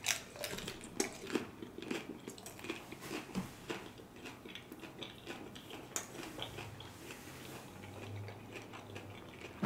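A person biting into and chewing a crunchy hard-shell taco: a bite at the start, then many small crisp crunches as the shell is chewed.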